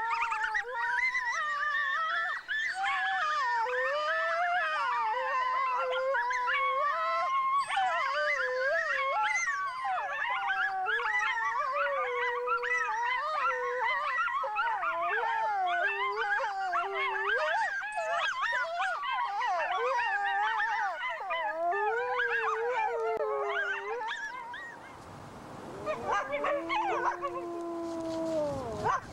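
A chorus of wolves and coyotes howling together, many voices overlapping with wavering, yipping calls. It dies down about 24 seconds in, and a few longer, steadier howls follow near the end.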